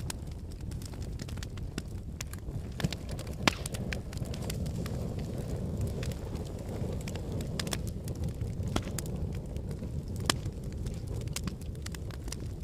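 Logs burning in a fireplace: a steady low rumble of the flames with irregular sharp crackles, and a few louder pops, the loudest about three and a half seconds in.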